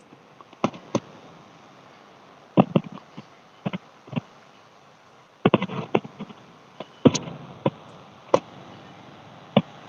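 Fireworks going off: a string of sharp pops and bangs at uneven intervals, with a quick burst of several pops about five and a half seconds in.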